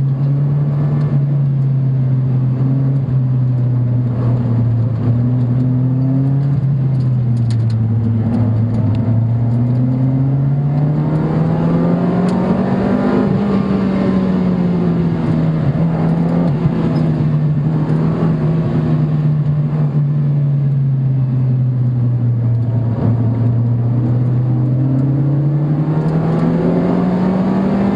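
Car engine heard from inside the cabin on a circuit lap, its note dropping and climbing slowly several times as the revs change, over steady road and wind noise.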